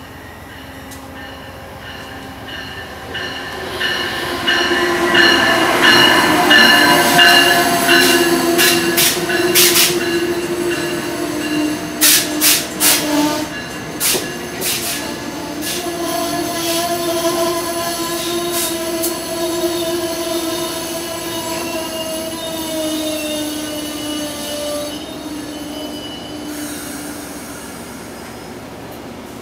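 Amtrak passenger train rolling past close by along the platform, loudest about five to eight seconds in. Its wheels and brakes squeal in several steady high tones that sink slowly in pitch as it slows, with a run of sharp clicks from about nine to fifteen seconds in.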